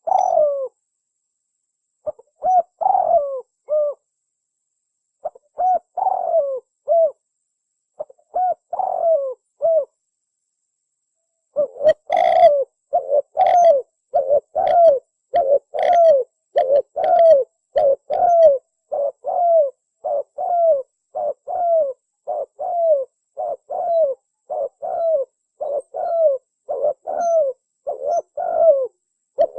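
Spotted dove (tekukur) cooing its song. There are short phrases of a few coos with pauses between them for the first ten seconds or so; then, from about twelve seconds in, a steady unbroken run of coos, roughly one and a half a second.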